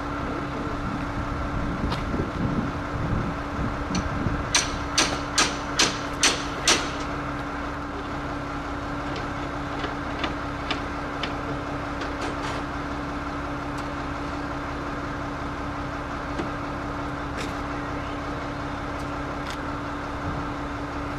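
An engine runs steadily while a hammer strikes six quick blows about four seconds in, followed by a few lighter, scattered knocks.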